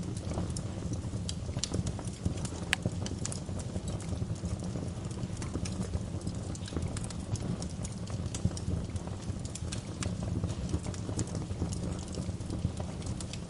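Wood fire crackling in a fireplace: irregular sharp pops and crackles over a steady low rumble, with one louder pop a little under three seconds in.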